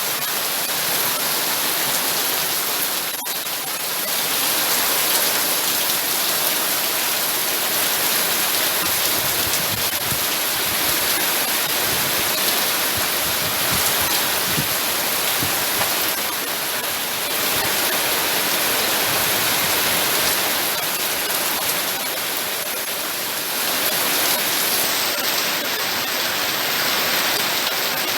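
Steady rain pouring down, an even hiss of falling water.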